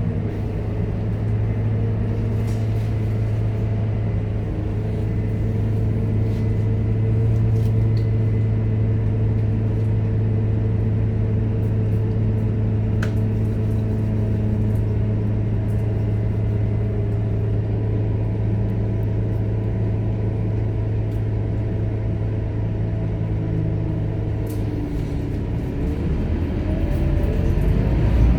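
Scania K230UB city bus's diesel engine running, a steady low hum and drone. Near the end the pitch shifts and wavers as the engine note changes.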